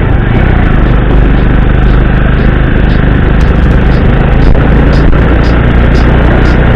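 Motorcycle engine running steadily while riding, under a steady rush of wind and road noise.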